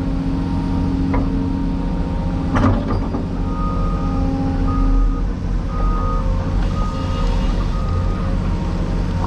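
Heavy diesel engine of a Cat 336E excavator running steadily, with two metallic clanks early on. A reversing alarm beeps repeatedly through the second half.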